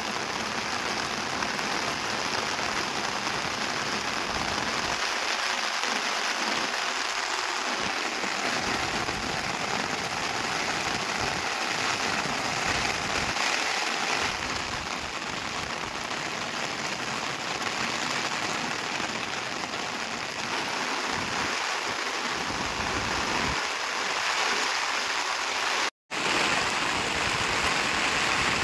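Heavy rain pouring down steadily, a dense, even hiss of rain on surfaces. It cuts out for an instant near the end.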